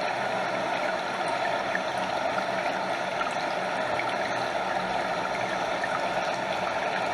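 A stream running steadily, with water flowing over a small waterfall, giving an even, unbroken rushing and splashing.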